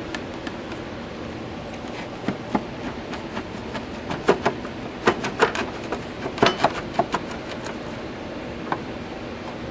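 Irregular sharp metallic clicks and knocks from hand tools working on the tractor's parts, busiest in the middle of the stretch, over a steady background hiss.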